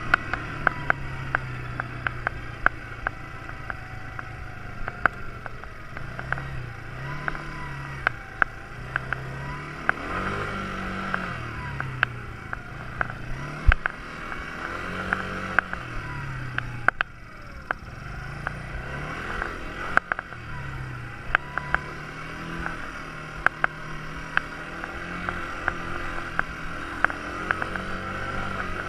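Quad bike engine running, its pitch rising and falling again and again as the throttle is opened and eased off, with frequent sharp clicks and knocks throughout.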